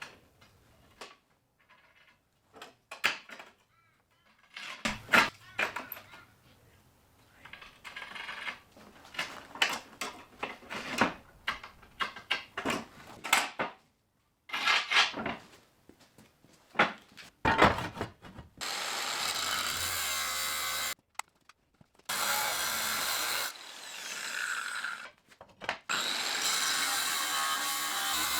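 Metalworking sounds: scattered knocks and clatters of tools and steel pieces being handled, then about 18 seconds in a power tool runs steadily in three long stretches with short breaks between them.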